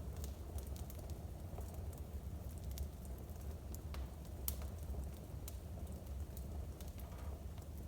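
Wood fire burning in a home fireplace: irregular sharp crackles and pops, a few each second, over a steady low rumble.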